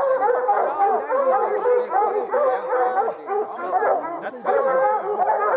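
A pack of hounds baying and barking nonstop at a bear they have treed. Several dogs' voices overlap continuously: the tree bark that signals the quarry is up a tree.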